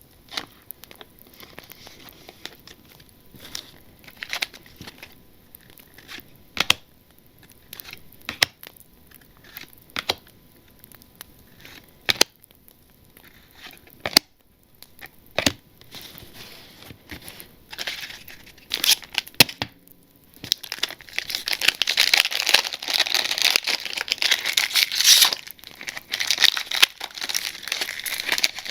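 Plastic wrapper of a Panini Zenith football card pack crinkling, with scattered sharp crackles. About twenty seconds in it turns into continuous, dense crinkling and tearing.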